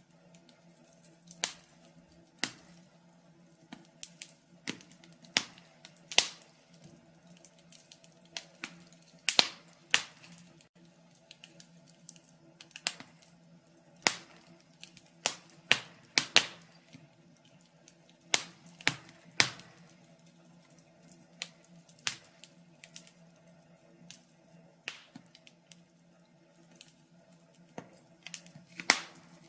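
Wood fire crackling: irregular sharp pops and snaps from the burning logs, sometimes in quick clusters, over a faint steady low hum.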